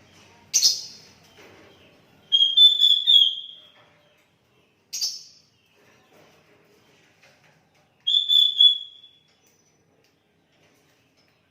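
Sooty-headed bulbul (kutilang) singing. There is a sharp call about half a second in and another about five seconds in. A short whistled phrase comes at about two seconds and a second one at about eight seconds, with quiet gaps between.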